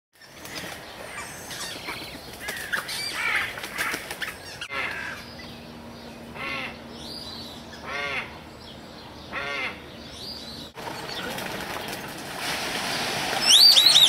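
Aviary birds calling: assorted chirps, then one arching call repeated three times about a second and a half apart over a low steady hum, then sharp high calls near the end.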